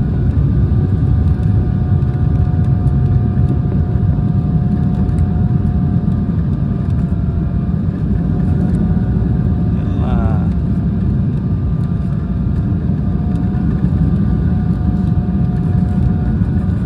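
Airliner cabin noise on a landing approach in strong wind: a loud, steady low rumble from the engines and airflow, with steady whining engine tones held over it. A brief warbling sound comes about ten seconds in.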